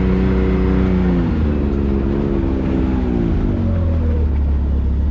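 Can-Am Maverick X3 UTV's turbocharged engine running steadily at low speed, then dropping in pitch about a second in and winding down to idle near the end as the machine slows to a stop.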